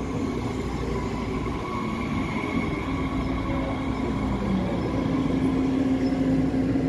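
Electric train running through a station, a steady rumble with a low hum and a higher held whine, growing a little louder near the end.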